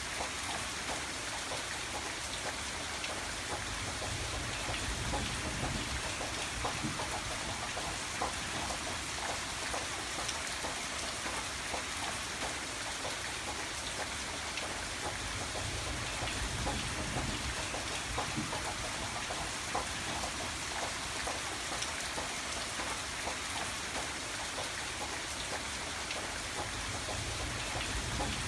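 Steady rain falling, a dense patter of drops, with a low rumble swelling up now and then.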